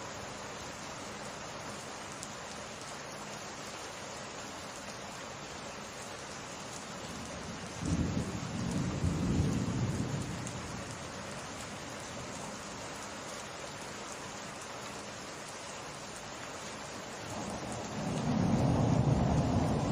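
Steady summer rain falling with a constant hiss, broken twice by rolls of thunder: a sudden low rumble about eight seconds in lasting a couple of seconds, and a second, louder one building near the end.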